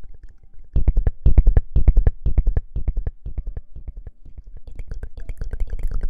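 Close-miked ASMR rustling: rapid crackling, scratching clicks right against the microphone, which get louder about a second in.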